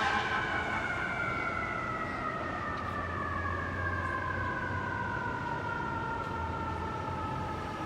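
Fire truck's mechanical siren winding down in one long, slowly falling wail, with the truck's engine rumbling low underneath.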